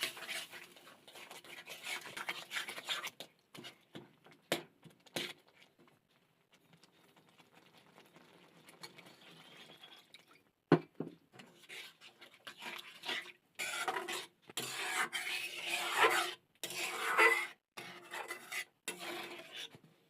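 Irregular scraping and clinking of kitchen utensils against dishes, with one sharp click about eleven seconds in and denser, louder scraping through the second half.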